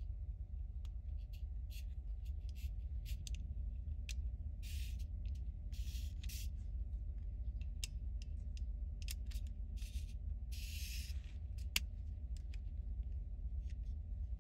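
Plastic toy parts being handled and fitted together: many small clicks and taps, with a few brief scrapes, over a steady low hum.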